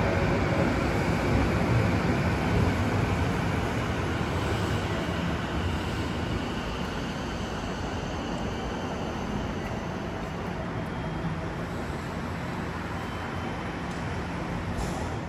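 Sanyo 6000 series electric train alongside the platform, giving a steady running noise that slowly gets quieter.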